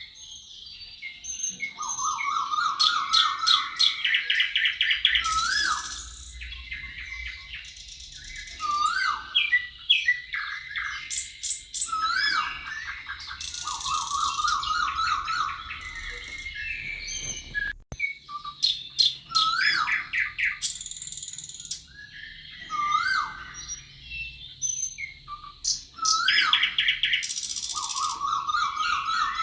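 Several songbirds singing at once: a busy chorus of whistled phrases, rapid trills and high buzzy notes, with one very brief break about two-thirds of the way through.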